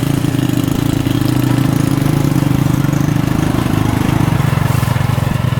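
A small engine running steadily at an even speed, its fast firing pulses close and loud.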